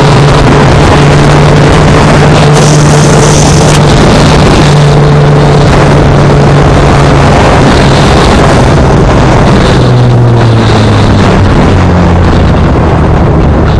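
Motorcycle engine running at a steady cruise under a loud rush of wind, then its pitch drops in steps about two-thirds of the way through as the bike slows down.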